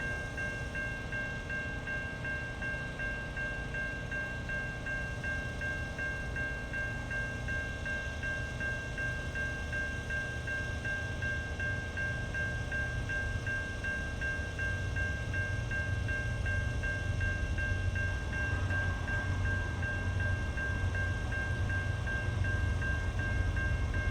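Container freight train led by CN diesel locomotives approaching, its low rumble growing louder, with a steady high-pitched ringing of several tones held throughout.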